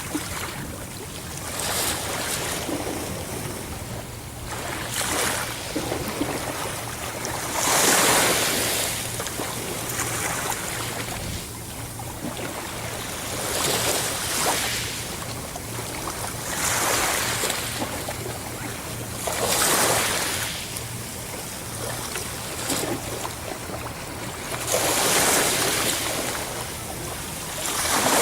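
Ocean waves breaking on a shore, a steady wash of surf that swells every few seconds as each wave crashes, the largest about eight seconds in.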